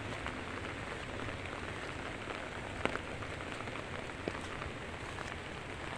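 Steady heavy rain pattering on surfaces, with a few louder drops ticking about three seconds in and again a second or so later.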